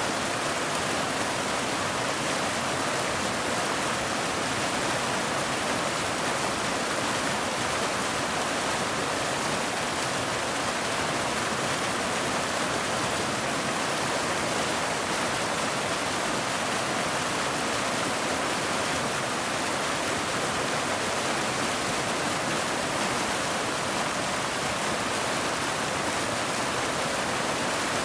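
Steady rain, an even unbroken hiss with no single drops standing out, holding the same level throughout.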